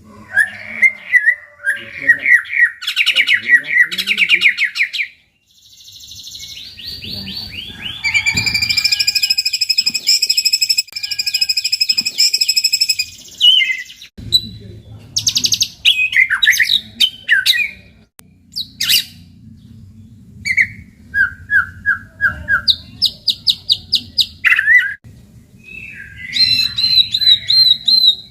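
White-rumped shama (murai batu) singing loud, varied song: fast trilled phrases, a long buzzy rattling phrase in the middle, and sharp whistled and slurred notes. This is lure song (pancingan), played to provoke a silent or stressed shama into singing. A low steady hum sits underneath in the second half.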